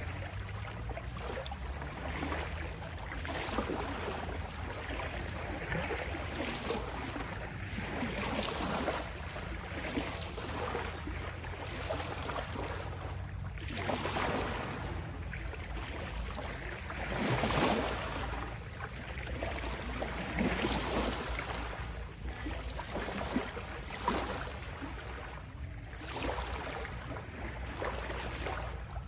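Small sea waves lapping on the shore, coming in repeated swells of washing noise, the biggest about two-thirds of the way through, over a steady low rumble.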